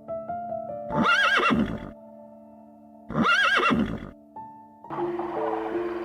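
A horse whinnies twice, two matching quavering calls about two seconds apart, over background music with held notes. A noisier sound comes in near the end.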